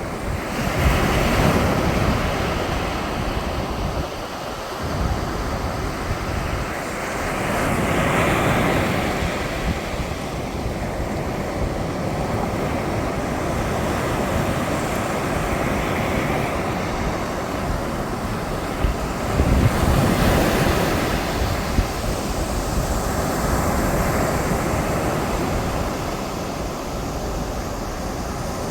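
Sea waves breaking and washing up on a beach, swelling and ebbing every six to eight seconds, the loudest swell about two-thirds of the way through. Wind buffets the microphone.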